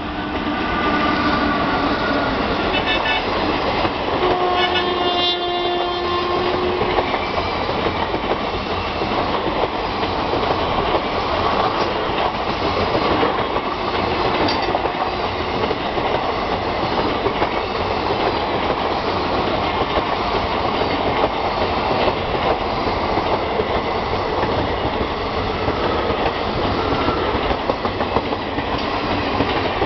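Indian Railways WAP-4 electric locomotive hauling an express past at speed. Its horn sounds as the train arrives and again for about three seconds from about four seconds in. After that the coaches go by with a steady rumble and clickety-clack of wheels over the rail joints.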